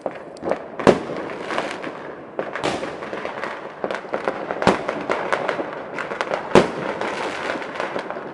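New Year fireworks going off all around: a dense, continuous crackle of firecrackers and shells, with several louder bangs standing out about a second in, near the middle and about two-thirds of the way through.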